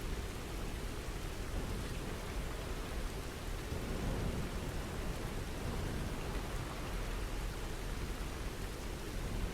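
Steady rain falling, an even hiss with a deep rumble underneath.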